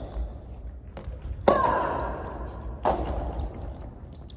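Soft tennis rally: two racket strikes on the rubber soft tennis ball about a second and a half apart, each a sharp pop with a brief ring, with fainter knocks between them.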